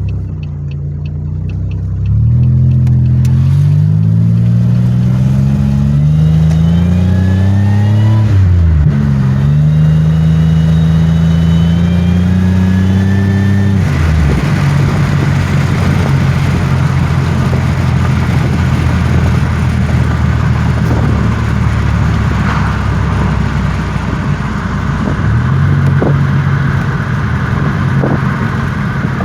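2007 Pontiac Grand Prix GT's V6 heard from inside the cabin while driving: the engine pitch climbs under acceleration, drops at a gear change about eight seconds in, and climbs again. From about halfway it settles to a steady cruise with road noise.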